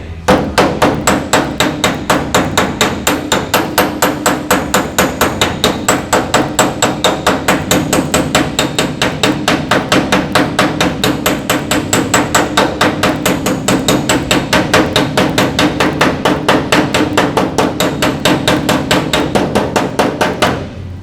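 A hammer tapping rapidly and steadily on the sheet-metal bedside of a Ford F-150, about four to five blows a second with a ringing metallic tone, working a dent out of the panel.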